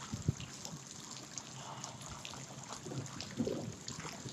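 Faint water trickling and lapping, with a few small clicks and low knocks.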